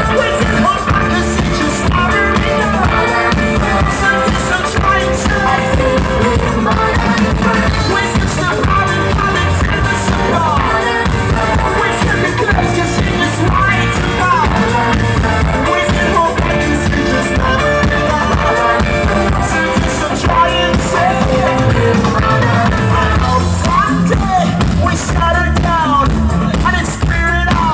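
Live rock band playing a song with a lead singer, loud and continuous.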